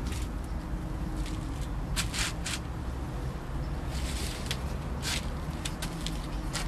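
Leaves and plant stems being handled: scattered short rustles and clicks over a steady low rumble.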